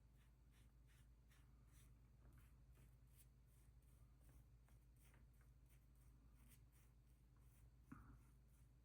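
Near silence with faint, repeated scratchy strokes of colour being worked onto bleached deer antlers, and one light knock near the end.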